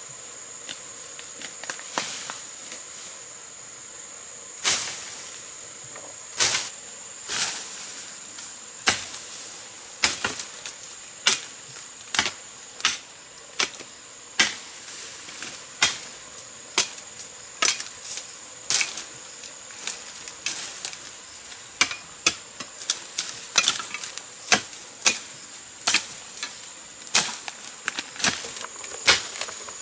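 Irregular sharp strikes of a hand tool, about one a second, coming quicker and denser in the second half, over a steady high insect drone.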